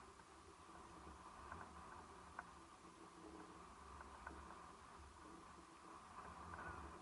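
Faint wash of a calm sea on the shore, an even hiss with scattered small ticks, swelling slightly near the end.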